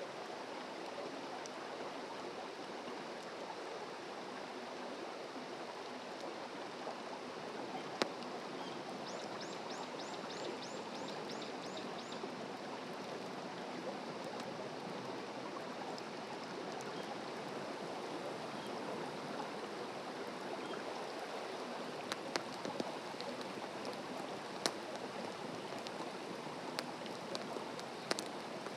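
Open wood campfire crackling with scattered sharp pops, more of them near the end, over a steady rush of running stream water. A bird gives a quick run of about eight chirps about ten seconds in.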